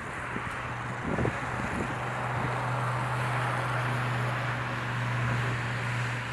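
Steady engine rumble with a low, even hum underneath, and some wind on the microphone.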